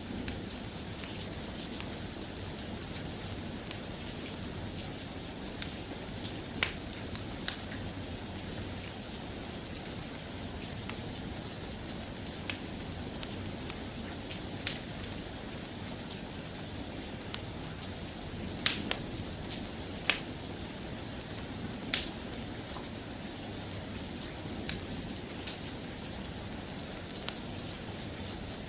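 Steady, soft rain falling, with scattered sharp clicks and pops over it.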